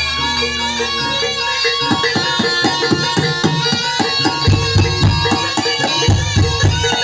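Live barongan accompaniment music from a Javanese gamelan-style ensemble: ringing pitched percussion over fast hand-drumming that picks up about two seconds in, with deep low strokes twice near the end.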